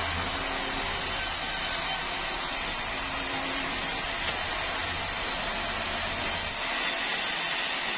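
Power saw running steadily through meranti timber, an even, hissing whine with no pauses; the sound changes abruptly near the end.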